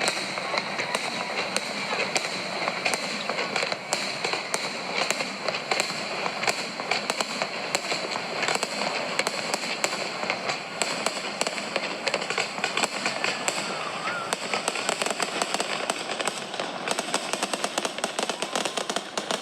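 Fireworks going off without a break: a dense stream of crackles and pops, packing closer together over the last few seconds.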